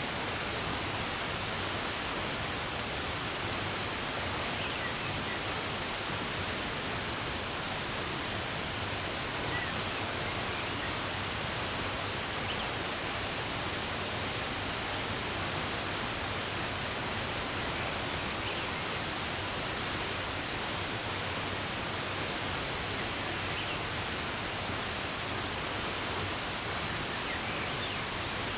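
Running water making a steady, even rush, with a few faint, brief bird chirps scattered through it.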